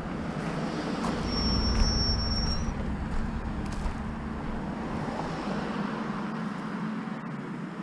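Motor vehicle running with road noise, a steady low rumble that swells a little between about one and three seconds in. A brief high whistle sounds over it a little over a second in.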